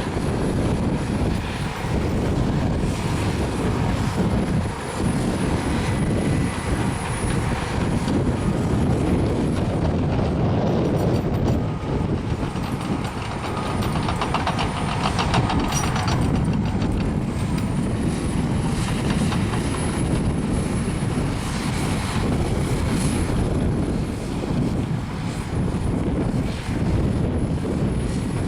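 Caterpillar crawler bulldozer working: the diesel engine runs steadily under load, with a denser rattle from the running gear about halfway through.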